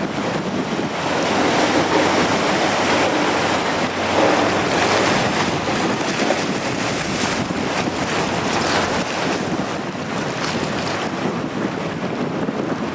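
Strong coastal wind buffeting the microphone over the wash of surf. It is a loud, rushing noise that swells in gusts.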